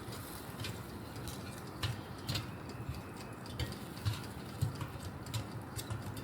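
Light, irregular clicks and taps of chicken wings being turned over in an air fryer basket, over a faint low hum.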